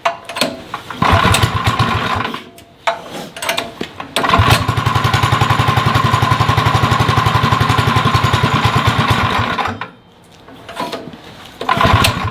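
Small go-kart engine catching briefly about a second in, then running with an even beat for about five seconds before dying, and catching briefly again near the end. The owner takes the trouble for a worn-out engine rather than a carburettor problem.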